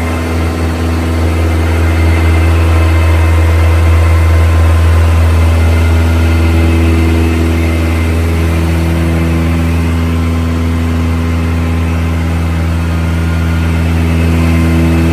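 Turbocharged Honda K24 four-cylinder engine in a Nissan Hardbody truck idling steadily.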